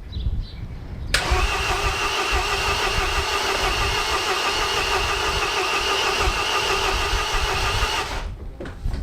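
Starter motor cranking a MINI R56's 1.6 HDi DV6 diesel engine for about seven seconds, starting suddenly about a second in and cutting off abruptly; the diesel does not fire and catch.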